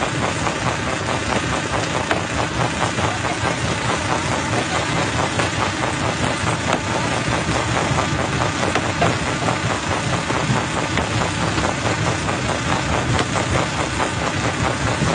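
Jaw crusher running steadily, a continuous mechanical drone with a dense clatter of rock being broken.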